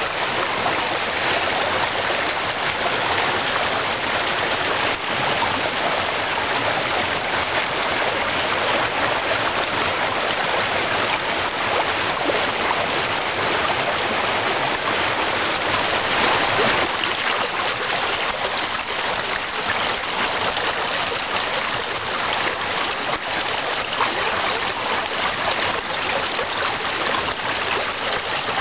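Small waterfall of spring meltwater splashing and rushing steadily, with a slight dip in the lower rushing about seventeen seconds in.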